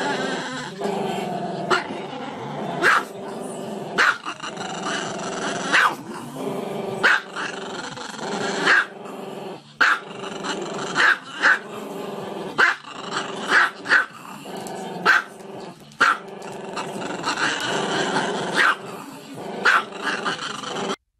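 Small dog howling with its head thrown back: a continuous wavering howl broken by sharp loud barks every second or so.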